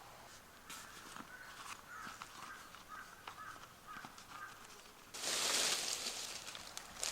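A bird calling in a series of short, high notes, with scattered ticks and clicks. About five seconds in, a loud rustling noise takes over for about two seconds.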